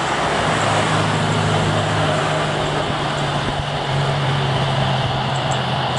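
Steady jet engine noise of an Airbus A320neo airliner with CFM LEAP-1A engines on its landing approach: an even rushing hiss over a low steady hum.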